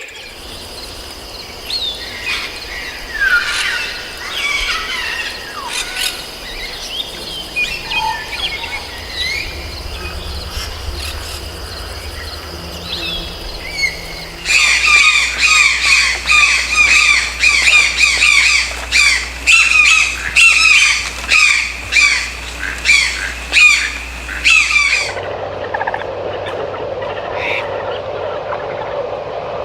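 Several birds calling and singing over a steady rainforest background. About halfway through, a loud series of repeated bird calls sets in, roughly one a second for about ten seconds. Then it cuts abruptly to a steadier, lower background hiss.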